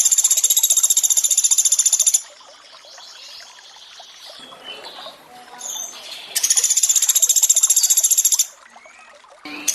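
Pelatuk beras woodpecker trilling: two loud bursts of very fast, evenly repeated high notes, each about two seconds long, over a soft steady wash of running water.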